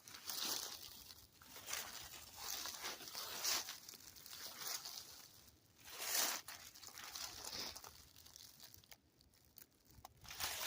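Footsteps crunching on the woodland floor, about one step a second, with a quieter stretch near the end.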